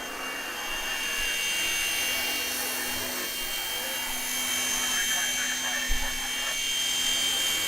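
Small remote-control toy helicopter running, its electric motor and rotor giving a steady high-pitched whine. A short low knock comes about six seconds in.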